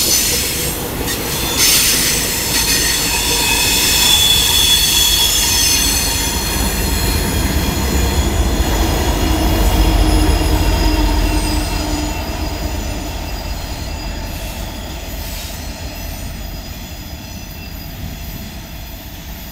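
A long string of diesel locomotives (SD40-2s) rolling past, wheel flanges squealing in several high overlapping tones over a deep rumble. The rumble is loudest about ten seconds in as a locomotive passes close. The squeal then dies away and the whole sound fades as the train moves off.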